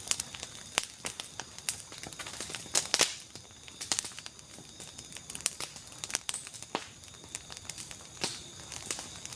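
Irregular crinkling and crackling clicks close to the microphone, with a louder cluster about three seconds in.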